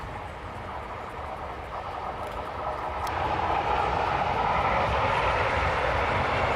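Regional train of double-deck coaches and a Siemens Vectron electric locomotive passing at a distance: a steady rush of wheels on rails that swells gradually as the train draws nearer.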